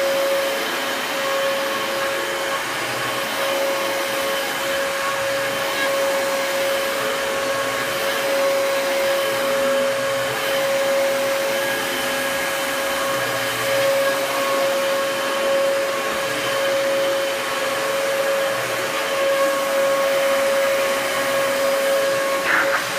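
Upright vacuum cleaner running steadily on carpet: a constant motor whine over rushing air.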